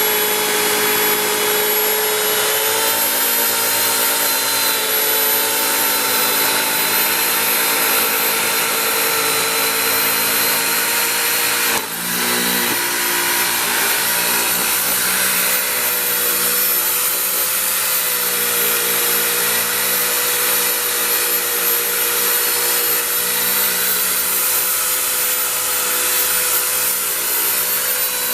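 Electric buffer running steadily with a buffing pad on an aluminum truck wheel, polishing it, with a brief break about twelve seconds in.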